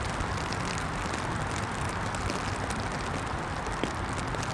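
Steady rain falling: a dense, even hiss dotted with many small drop ticks, over a low rumble, with one sharper tick nearly four seconds in.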